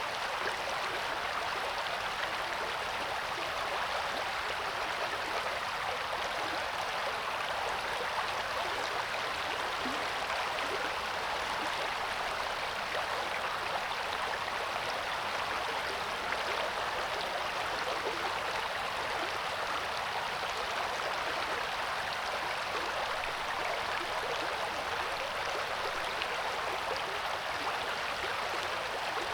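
River water flowing and splashing over rocks: a steady, even rushing.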